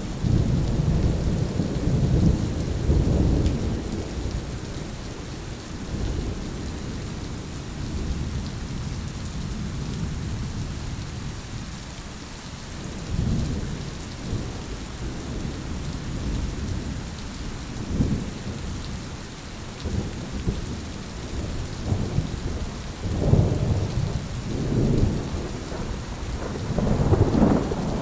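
Thunderstorm: steady rain hissing, with repeated low rolls of thunder that swell and fade, heaviest in the first few seconds and again from about 23 seconds in.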